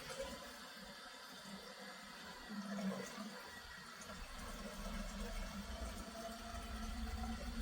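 Electric water pump running, with coolant rushing and gurgling through the hoses and radiator as the cooling system fills. A low hum comes in about halfway through.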